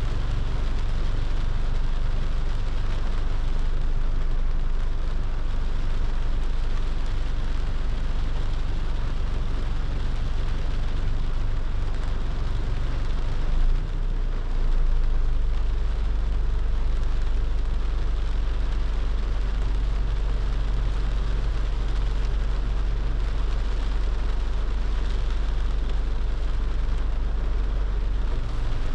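Rain on a moving car mixed with the car's steady low road and engine rumble. After a brief dip about halfway through, the low rumble comes back slightly stronger.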